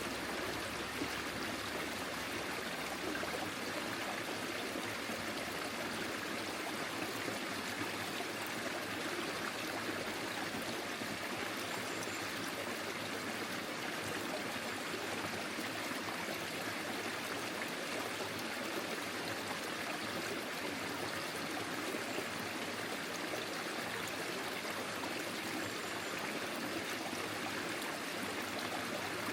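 Forest stream flowing steadily over stones, a continuous rushing with trickling and gurgling water.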